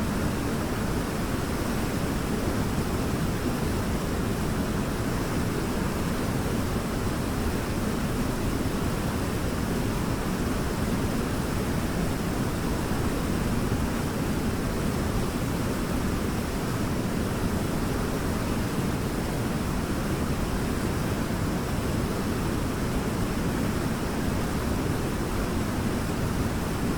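Waterfall rushing steadily: an even, unbroken roar of falling water, heaviest in the low and middle range.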